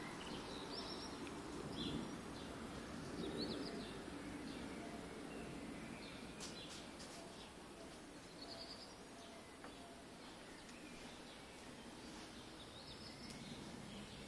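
Faint outdoor background noise with scattered short bird chirps, a few seconds apart.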